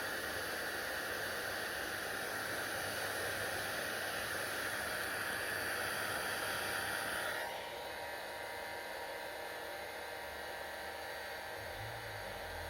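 Hair dryer blowing with a steady rushing hiss. About seven and a half seconds in it turns slightly quieter and duller and then stays steady.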